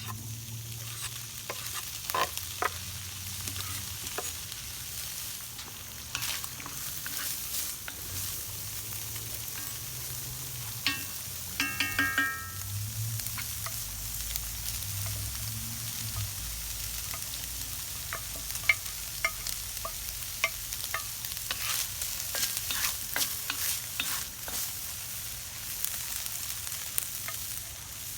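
Stir-fry sizzling in a Lodge cast iron wok, with a utensil scraping and clicking against the iron as the food is stirred.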